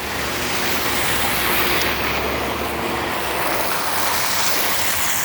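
Road traffic: a motor vehicle running close by, giving a steady hiss of tyres with a low engine rumble underneath.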